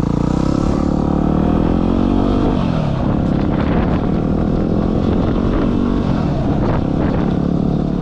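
Yamaha WR250R's single-cylinder engine pulling away from idle and accelerating, the pitch dropping at a gear change about two and a half seconds in.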